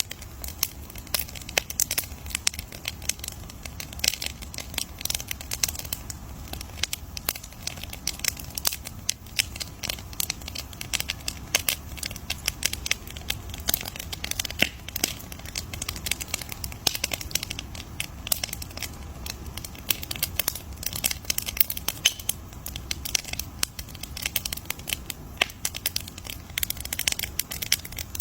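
Wood campfire crackling, with dense, irregular pops and snaps over a low steady rumble.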